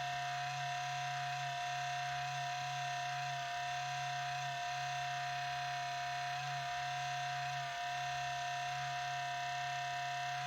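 HP Pavilion 15 laptop making a steady high whine over a lower hum, the lower part dipping briefly now and then. This is the noise it has made at boot since it was cleaned, which quiets down after a while.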